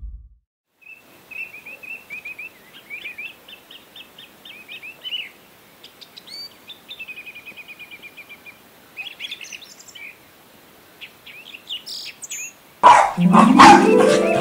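Songbirds chirping and trilling in short repeated phrases, fairly faint. Near the end, music comes in loudly with a rising run of notes and sharp hits.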